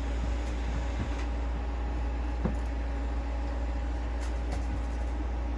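Robot vacuums running together: a steady motor whir with a low hum and a few faint knocks.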